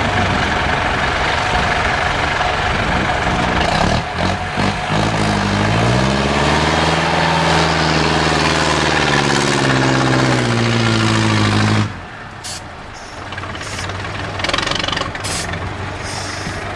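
IFA 4x4 truck's diesel engine working hard under load off-road: a loud, dense engine noise, then the engine note climbs and holds high as it revs. About twelve seconds in it drops suddenly to a quieter low running note, with a few sharp clicks.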